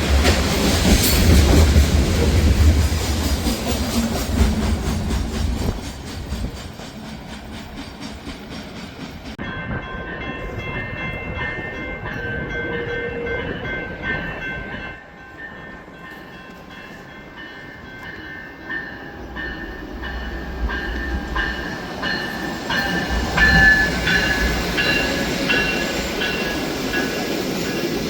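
A train passing close by, its heavy rumble loud for the first few seconds and then fading. From about ten seconds in, steady high-pitched ringing tones sound, and the rumble of a train builds again in the second half.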